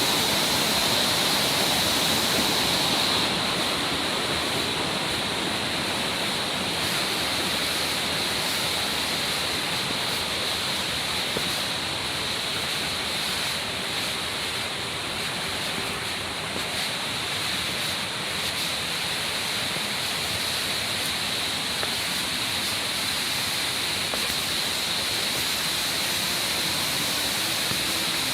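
Mountain stream water rushing and splashing over rocks, a steady even noise.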